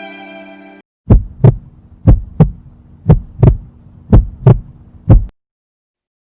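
Heartbeat sound effect: lub-dub double thumps about once a second, five beats over a low steady hum, stopping suddenly a little after five seconds in. The tail of a sad violin piece fades out at the start.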